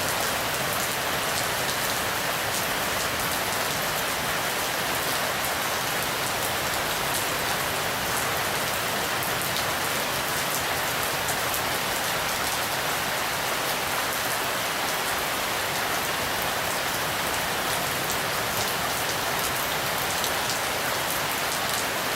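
Steady rain falling, with many individual drops pattering on surfaces.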